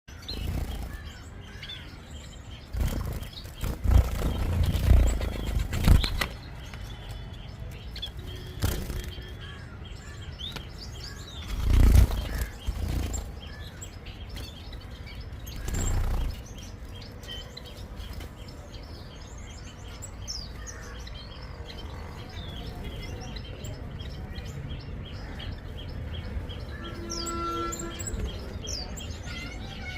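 Many zebra finches chirping and calling together, with short nasal calls near the end. Several loud low thumps or flutters break in a few seconds in, around twelve seconds and around sixteen seconds.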